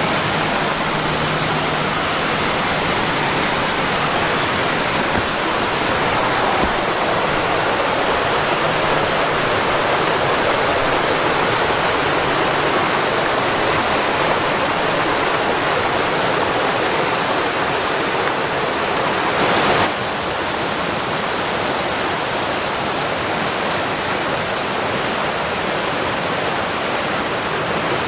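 Creek water rushing steadily over small falls and rocks, with a slight drop in level about twenty seconds in.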